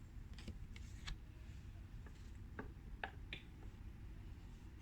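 Faint clicks and light taps of glossy tarot cards being handled and turned over, a few scattered sharp ticks over a low steady room hum.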